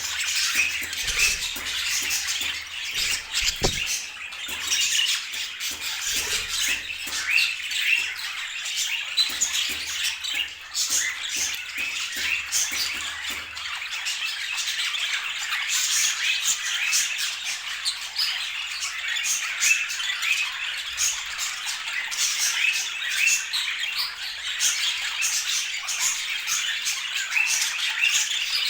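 Budgerigars chattering, with a steady stream of overlapping short chirps and squawks.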